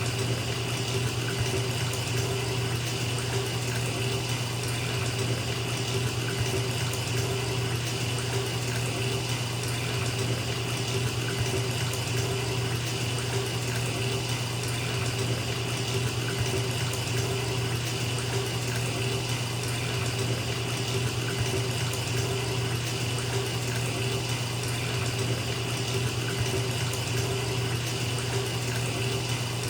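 Bathtub tap running steadily, water pouring into a filling tub with an even splashing rush.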